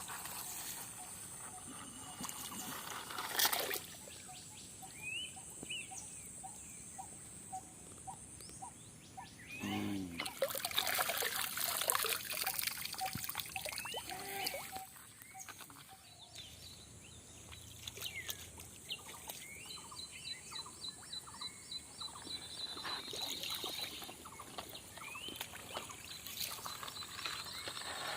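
Water trickling and pouring, louder for a few seconds near the middle, with birds chirping.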